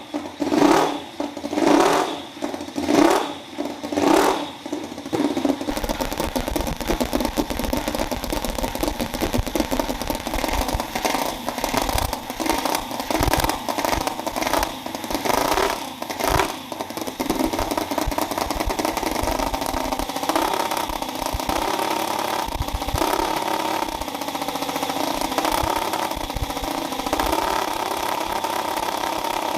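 Small single-cylinder-based engine in slow, rhythmic surges about a second apart, then running steadily from about five seconds in.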